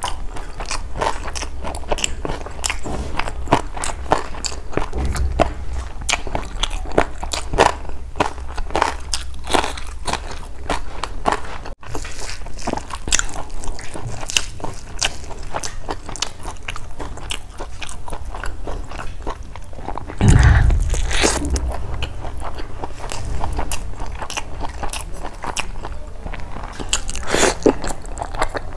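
Close-miked chewing and wet mouth sounds from eating rice and chicken curry by hand, a dense run of small irregular clicks and smacks. About twenty seconds in there is a louder, deeper thump.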